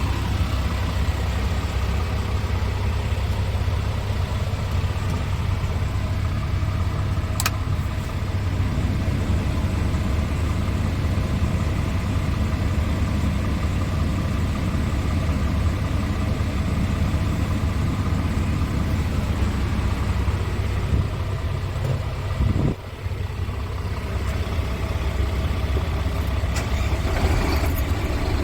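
Scania P230 truck's five-cylinder diesel engine idling steadily, with one sharp click about seven seconds in.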